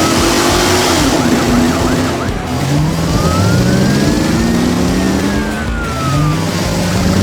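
Cartoon vehicle engine sound effects, revving up in repeated rising runs, with a siren-like tone that climbs slowly and then falls away once, from about three seconds in.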